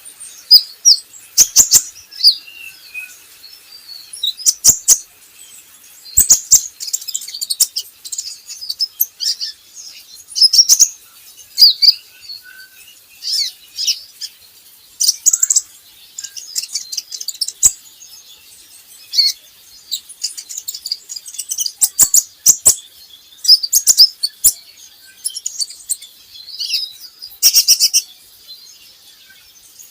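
Kolibri ninja (a sunbird) singing: clusters of rapid, high-pitched chirps and twitters every second or two, with sharp clicks among them, used as a lure song to get young caged birds singing.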